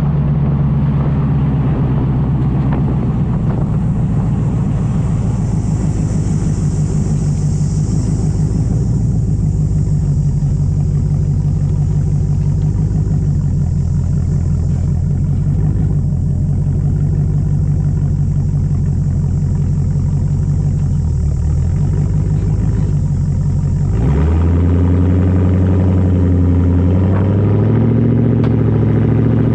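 Land Rover Defender 90 50th anniversary edition's 5.0-litre V8 running through a full custom exhaust, with a steady low exhaust note. Late on the note shifts abruptly and then climbs slowly.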